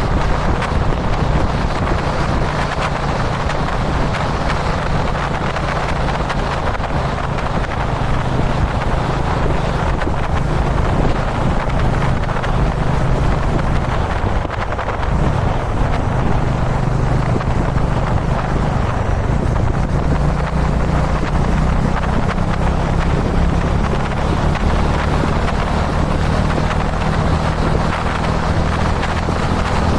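Kawasaki Dominar 400 UG2's single-cylinder engine running steadily at expressway speed, with wind rushing over the microphone. The engine note dips briefly about halfway through, then runs a little higher.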